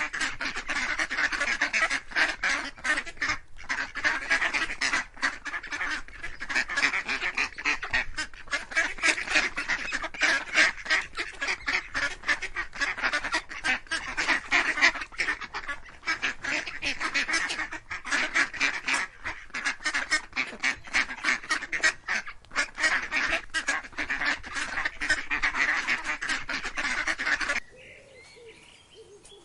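A flock of domestic waterfowl calling continuously, many quacks and honks overlapping in a dense clamour. The flock cuts off suddenly near the end, leaving a much quieter passage with a faint higher bird call.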